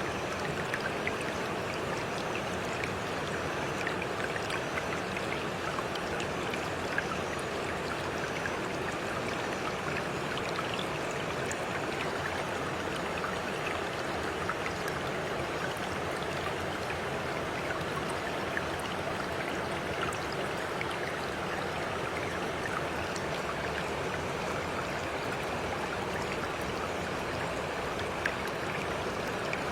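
Running water, flowing steadily like a stream, with many small trickling splashes.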